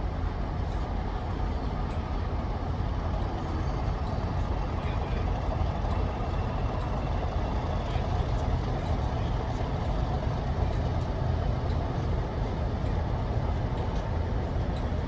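Diesel locomotive engine running steadily, a low continuous rumble with no change in pitch.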